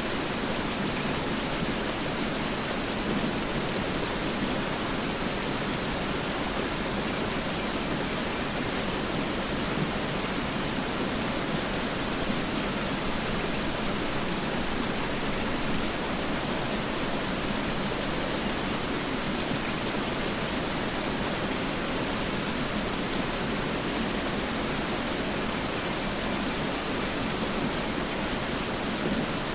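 Mountain river flowing: a steady, even rush of water with no breaks or separate events.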